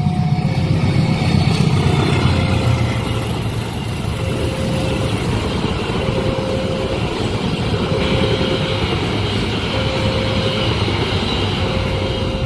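A train passing over a level crossing: a heavy diesel locomotive rumble for the first few seconds, then the carriages rolling over the rails, with high squealing from the wheels on the curved track in the second half. Over it the crossing's warning alarm repeats a short tone about once a second.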